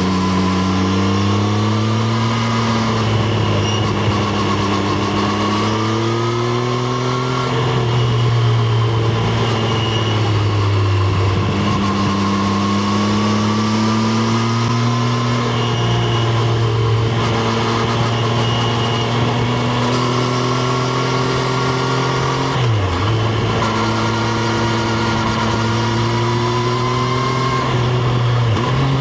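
Triumph Street Triple RS's 765 cc inline-three engine heard on board while riding, held at steady part throttle with its pitch slowly rising and falling. A little over two-thirds of the way in the revs dip sharply and come straight back. Wind rush runs underneath.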